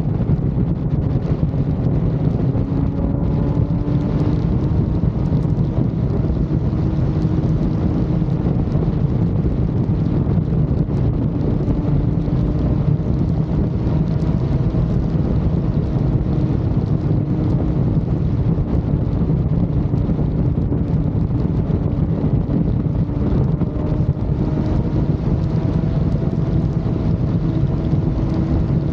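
Motorcycle riding at highway speed: a steady rush of wind on the microphone over the engine's hum, which drifts slowly up and down in pitch with the throttle.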